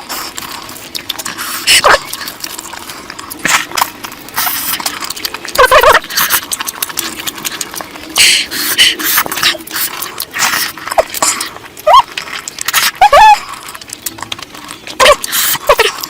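Close-miked eating sounds: wet chewing and lip smacking, with a few short slurps that fall in pitch, from mouthfuls of curry.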